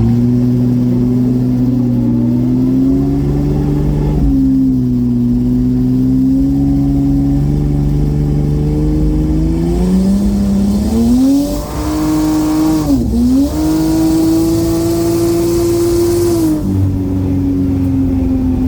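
BMW N54 3.0-litre straight-six with a single Precision 6466 turbo pulling hard under boost through the gears, its pitch climbing with breaks at gear changes about 4 seconds and 13 seconds in. A loud rushing hiss joins it in the second half, and the engine backs off near the end.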